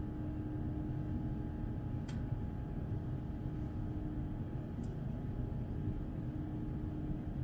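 Steady cabin noise inside an Airbus A350-900 with its Rolls-Royce Trent XWB engines running: an even low rumble of engines and airflow with a steady hum. Two faint clicks come about two and five seconds in.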